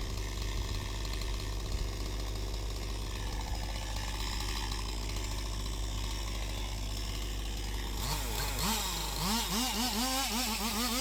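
Steady low hum of a running diesel engine, most likely the John Deere 60G excavator's. About eight seconds in, a louder mechanical whine starts over it, its pitch rising and falling rapidly several times a second.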